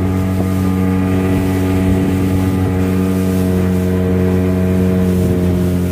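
Vehicle engine running steadily under way, with wind noise on the microphone; its pitch eases down slightly near the end.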